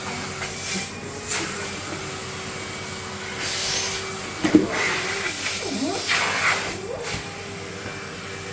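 Blue Henry canister vacuum cleaner running with a steady motor hum and airflow hiss, with a sharp knock about halfway through and a few shorter noises after it.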